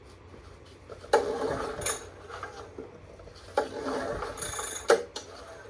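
Recoil pull-starter on a Honda EM3000 generator pulled twice. Each time the rope whirs out for about a second as the engine cranks over, then the handle knocks back. The engine does not fire, which the owner puts down to no spark or not pulling hard enough.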